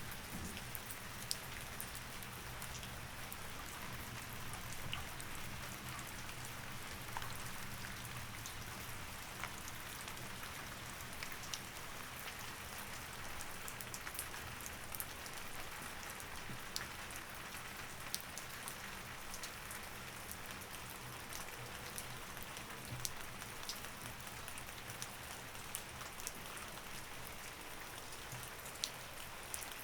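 Steady rain, an even hiss with scattered sharp ticks, over a faint low hum.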